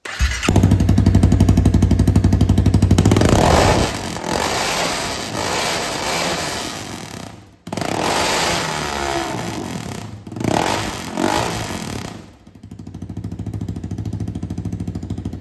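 Honda CBR300R's single-cylinder engine running straight piped, with the stock muffler removed. It is loud for the first few seconds, is revved up a few more times, and settles back to a steady idle near the end.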